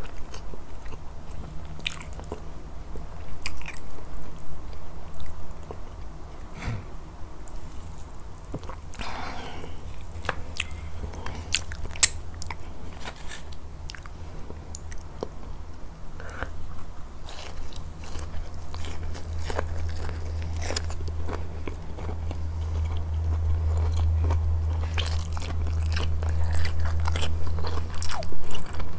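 Close-miked eating of a grilled fish meal: biting and chewing, with scattered crunches and mouth clicks and one sharp click about twelve seconds in, over a steady low hum.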